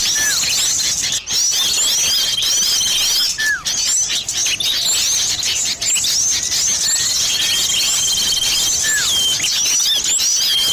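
Bird-lure recording of many small birds chirping densely over one another, said to combine sirtu and cipoh (common iora) calls. A buzzy trill lasting about a second and a short falling whistle recur every few seconds, like a looped lure track.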